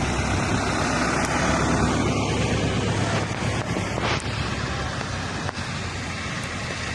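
Steady rushing wind noise on the microphone over a low, steady engine hum.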